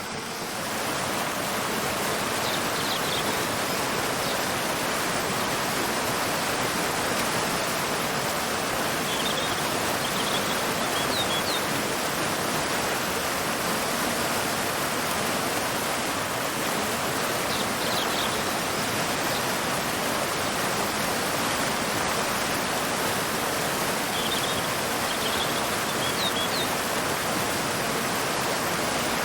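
Waterfall pouring into a river: a steady, even rush of falling water. Faint bird chirps come through in short clusters four times.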